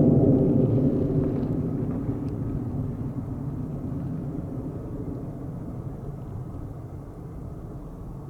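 F-35A fighter jet's engine rumble, fading steadily as the aircraft flies away.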